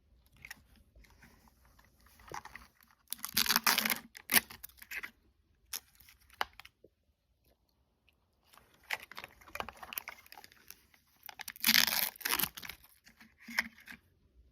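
Plastic toy packaging being torn open and crinkled by hand, in two louder bouts of tearing with lighter rustling between them.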